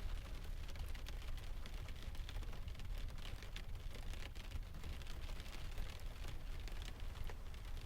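Mixed rain, ocean and fireplace ambience: steady rain hiss over a deep surf rumble, with scattered small crackles and pops throughout.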